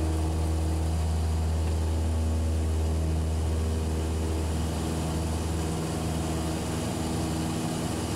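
Cessna 172SP's four-cylinder piston engine and propeller at full takeoff power, a steady drone heard from inside the cabin, easing slightly about two-thirds of the way through.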